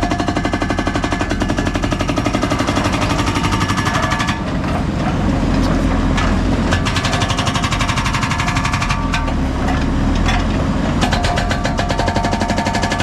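Hydraulic breaker hammering concrete in rapid, even blows over a running diesel machine engine, with brief breaks about four and nine seconds in.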